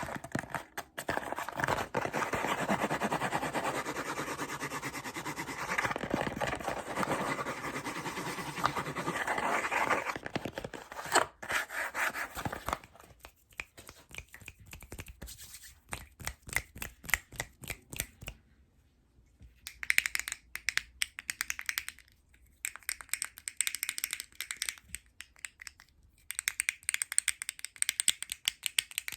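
Fast ASMR scratching and rustling on plastic and cardboard items for about twelve seconds, then quick, sparse taps and clicks with short pauses between.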